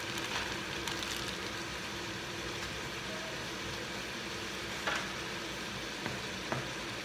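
Pork and kimchi sizzling steadily in a pot. A plastic bag rustles in the first second as shredded carrots are tipped in, and there are a couple of faint clicks near the end.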